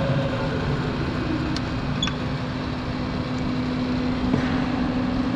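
Steady machinery hum with an airy noise and one constant low tone, with a couple of faint ticks.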